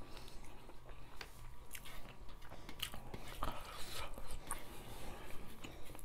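Close-miked eating sounds of two people eating rice and fish soup with their hands: chewing with frequent short wet smacks and clicks.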